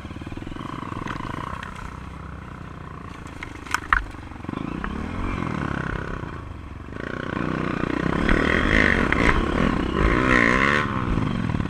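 Honda CRF230 dirt bike's single-cylinder four-stroke engine running and being revved, with two sharp knocks about four seconds in. It gets louder from about seven seconds in, the pitch rising and falling several times near the end.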